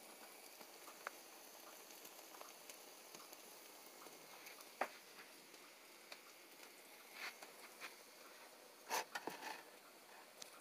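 Puffball mushroom slices frying in a pan: a faint steady sizzle with scattered small pops. A few sharper clicks stand out about halfway through and in a quick cluster near the end.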